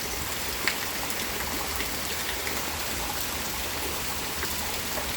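Steady rain falling, with scattered faint drop ticks on surfaces.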